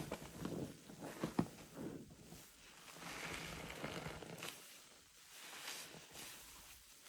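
Soapy orange car wash sponge lathered with Zote soap flakes being squeezed, its foam squelching and crackling in repeated swells with sharp wet clicks, busiest in the first second or so and quieter near the end.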